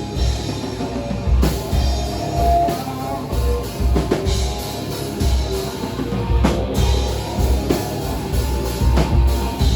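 Rock band playing an instrumental passage with no vocals: a drum kit keeping a steady beat under guitar, with a heavy low end pulsing in time.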